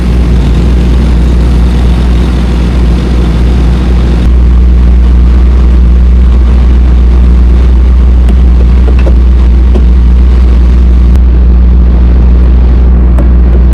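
Semi truck's diesel engine idling with a steady low drone, getting a little louder about four seconds in.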